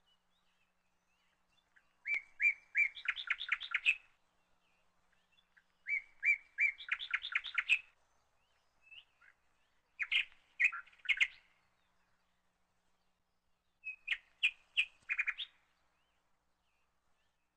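A songbird singing four short, repeated phrases, about four seconds apart. Each phrase opens with a few separate chirps and runs into a fast string of higher notes.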